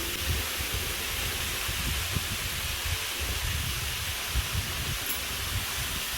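Steady rush of a small waterfall's falling water, with irregular low rumbles of wind buffeting the microphone.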